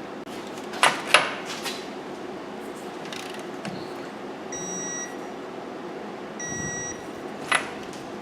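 A few sharp metallic clicks, then two half-second electronic beeps about two seconds apart from a digital torque wrench, signalling that the axle nut has reached its set torque.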